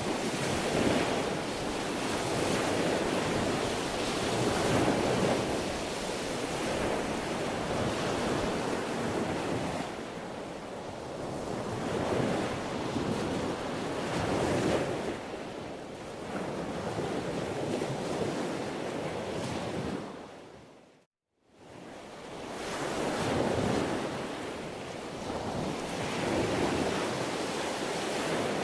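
Sea waves washing in and out, a steady noise that swells and ebbs every few seconds. About 21 seconds in it fades to silence for a moment and then comes back up.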